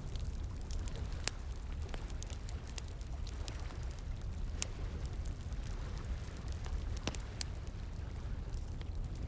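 Wood fire crackling, with sharp pops at irregular moments, over a steady rushing of flowing water.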